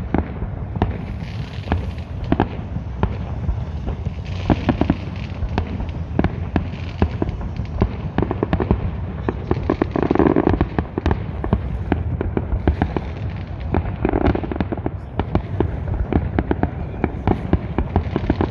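A fireworks display: a rapid, irregular barrage of shell bursts, bangs and crackling, over a steady low rumble, with heavier volleys about ten and fourteen seconds in.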